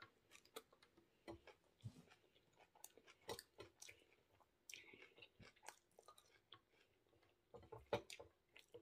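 Faint, intermittent chewing of water spinach and rice, with scattered small mouth clicks.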